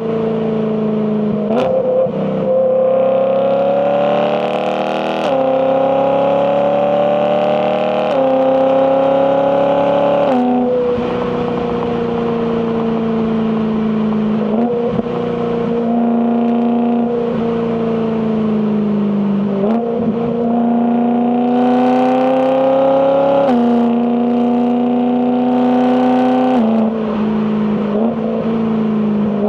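BMW E92 M3's 4.0-litre S65 V8 exhaust under acceleration. The pitch climbs through several gears and drops at each quick dual-clutch upshift, holds a steadier cruise with brief dips, then climbs again with two more shifts near the end.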